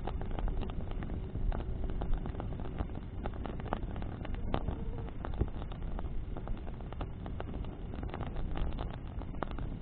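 Bonfire burning in the wind: a steady low rush of wind and flame with frequent sharp crackles and pops from burning branches.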